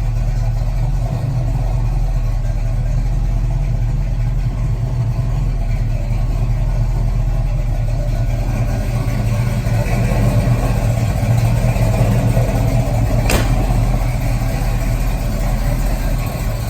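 A 1988 Chevrolet Caprice (box Chevy) engine running with a steady low drone that swells slightly about ten seconds in. A single sharp click sounds near the end.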